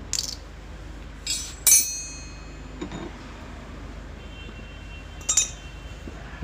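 Metal tools and parts clinking during the teardown of a washing machine's clutch: a handful of sharp metallic clinks with brief ringing, the loudest about two seconds in.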